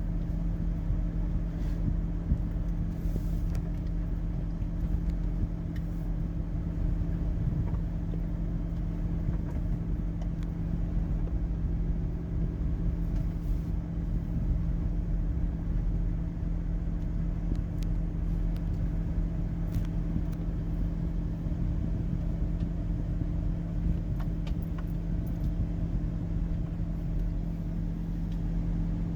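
Steady car engine hum and low rumble heard from inside the car's cabin, unchanging throughout.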